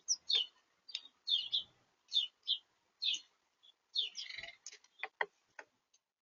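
Small birds at a feeder chirping in quick, short high notes, with a few sharp taps near the end.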